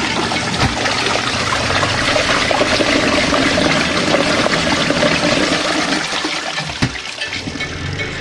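Compact RV washing machine running its wash cycle: a steady motor hum under loud rushing water, with a single knock about seven seconds in.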